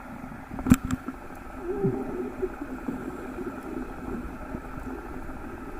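Muffled, steady rush of water as heard on an underwater camera, with a sharp click about 0.7 s in and a short falling tone near 2 s.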